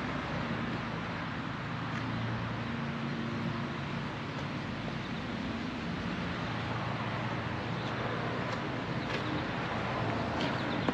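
A vehicle engine humming steadily under a constant wash of outdoor traffic-like noise.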